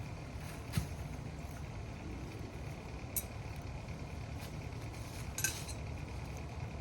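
Metal clinking three times, short sharp knocks about a second, three seconds and five and a half seconds in, the last the loudest, over a steady low rumble.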